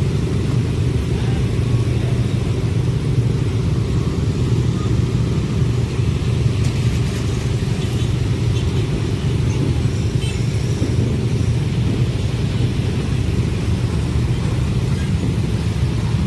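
Train rolling past, a steady low rumble that holds even throughout.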